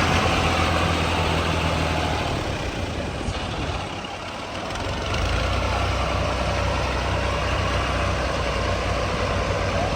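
Combine harvester's diesel engine running steadily with a deep hum; the low engine note drops away briefly around four seconds in, then comes back.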